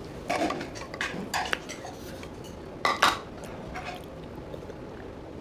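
Eating utensils clinking and scraping against a bowl in a few short clatters, the sharpest about three seconds in.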